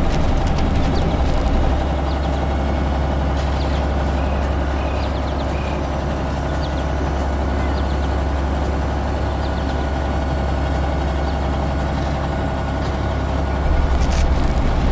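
Heavy vehicle engine running steadily with a deep rumble, a little louder in the first two seconds and again near the end.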